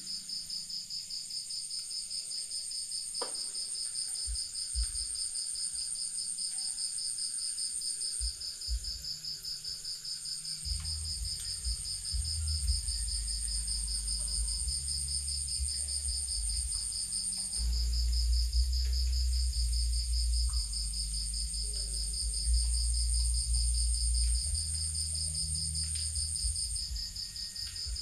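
Night insects, crickets, trilling steadily in a fast pulsing chorus at two high pitches. A low rumble comes in about ten seconds in and grows louder later.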